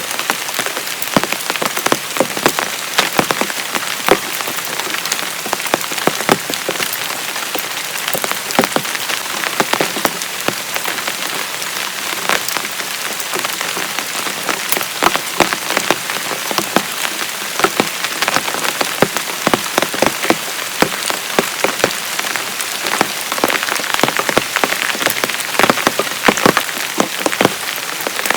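Heavy rain falling steadily, with many sharp taps of individual drops striking a nearby surface.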